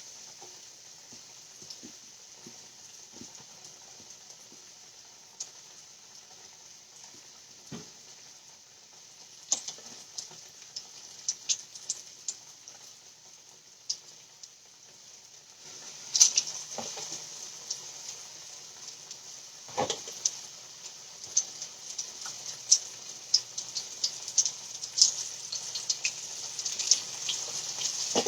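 Chicken frying in hot oil: a steady sizzle with crackling pops, which grows louder and busier about halfway through. A couple of dull knocks.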